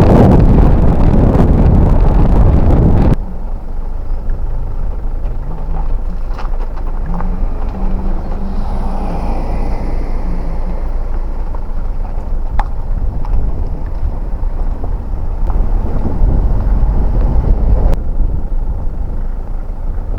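Strong wind buffeting the microphone, cut off sharply about three seconds in and followed by the steady low rumble of a car driving.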